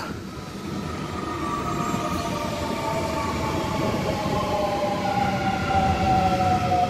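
Sydney Trains Millennium (M set) electric train moving through the station: a whine of several tones from its traction equipment, falling slowly in pitch, over the rumble of the wheels, growing a little louder.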